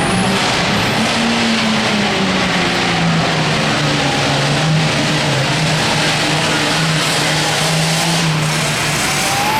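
John Deere 8410 tractor's six-cylinder diesel engine running hard under load while pulling the sled. The engine note holds steady with slight wavers in pitch.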